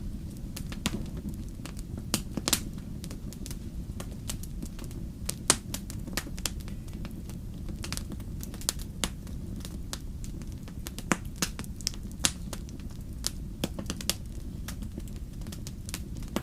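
Wood fire crackling: irregular sharp pops and snaps, several a second with a few louder ones, over a steady low rumble.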